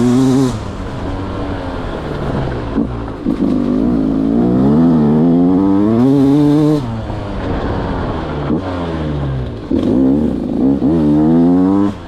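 Beta 200 single-cylinder two-stroke motorcycle engine being ridden through the throttle: the pitch climbs in long pulls and drops sharply off-throttle several times, about half a second in, near seven seconds and at the end, with short blips in between.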